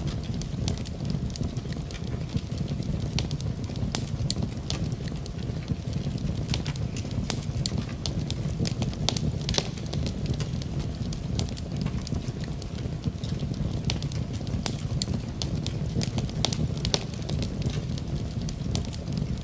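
Wood fire crackling, with frequent sharp irregular pops and snaps over a steady low rumble, mixed with steady rain.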